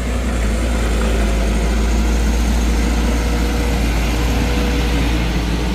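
Heavy truck engine running loud and steady with a deep low rumble, as a truck works up the steep grade.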